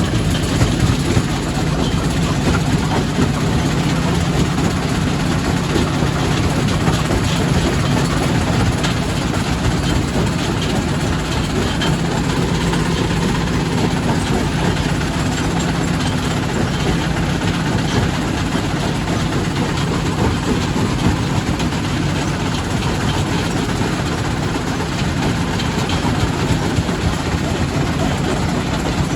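Quarry primary rock crusher running: a steady, heavy machine drone with a constant dense clatter of small knocks.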